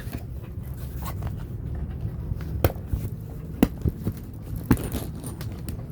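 Movement and handling noise as someone moves out of a boat cabin: scraping and rustling with a few sharp knocks, three louder ones in the second half, over a low steady rumble.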